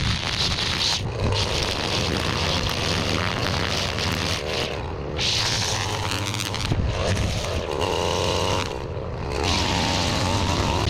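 Small gas engine of a landscaping power tool running steadily, easing off briefly three times and picking back up.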